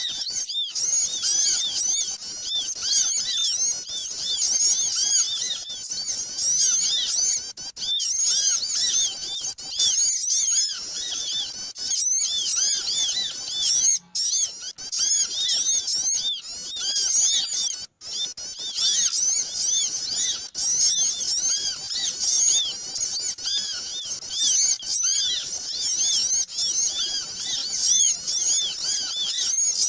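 Many small birds chirping and twittering at once: a continuous, noisy chorus of high, quick, arching chirps used as a lure call (pikat) to draw small birds in. It cuts out briefly twice, about a third and about halfway through.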